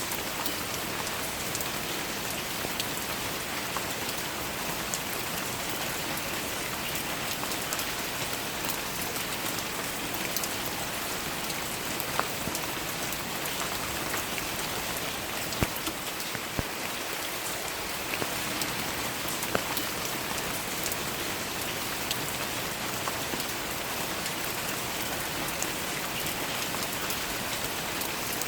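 Steady rain falling, an even hiss with occasional close drops ticking sharply over it.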